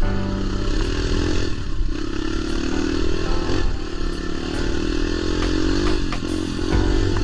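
Dirt bike engine running under load on a trail ride, its pitch rising and falling repeatedly as the throttle opens and closes, with a few light knocks.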